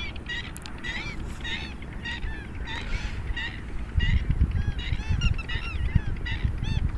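Geese honking over and over, short calls two or three a second. A low rumble joins in about four seconds in.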